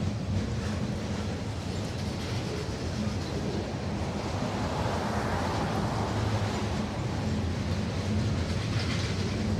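Train rolling past with a steady rumble of rail cars, swelling slightly about halfway through.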